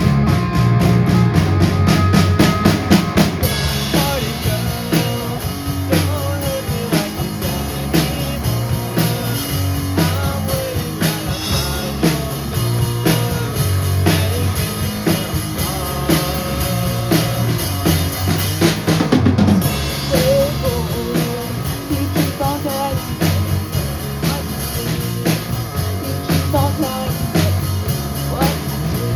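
Rock band playing live, with the drum kit to the fore: a steady beat of bass drum and snare hits over bass and guitar.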